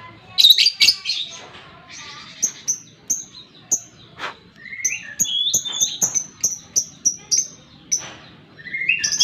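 Lovebird chattering: a run of sharp, high chirps about three a second, mixed with lower sliding squeaks, with denser bursts of calling near the start and at the end.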